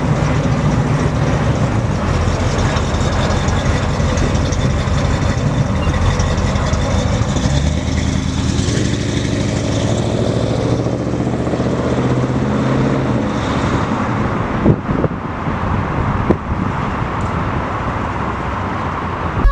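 1989 Dodge D150 pickup under way: its engine runs steadily under road and tyre noise, with the engine pitch shifting about halfway through and a couple of sharp knocks near the end.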